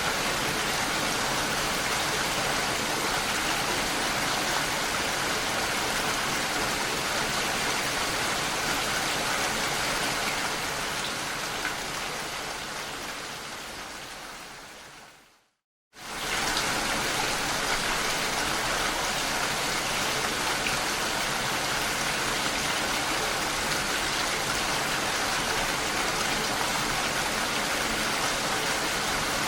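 Steady, heavy rain falling. About halfway through it fades out over several seconds to a brief silence, then starts again abruptly at full strength, like a recording being looped.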